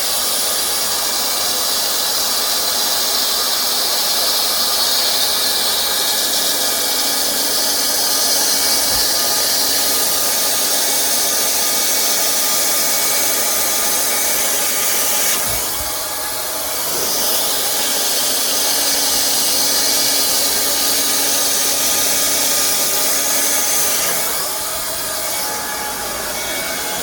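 Hot-air plastic welding gun with a tacking nozzle, its blower running steadily: a fan-motor whine over a hiss of hot air. The sound dips slightly twice, about halfway through and near the end.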